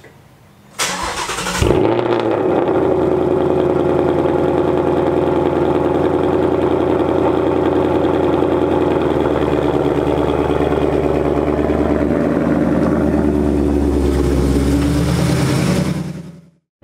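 Cold start of a 2018 Ford Mustang GT's 5.0 Coyote V8: the starter cranks briefly about a second in, the engine catches with a short flare, then settles into a loud, steady fast idle.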